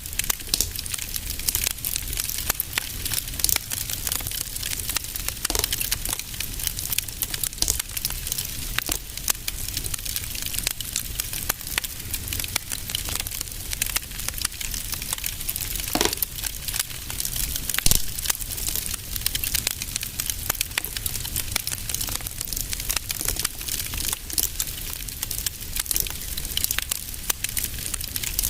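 Fireplace fire crackling steadily: a dense patter of small snaps with a few louder pops, the strongest about halfway through, over a low steady rumble.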